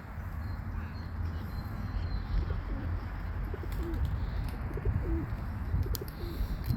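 Doves cooing: several short, low coos from about halfway through, over a steady low rumble.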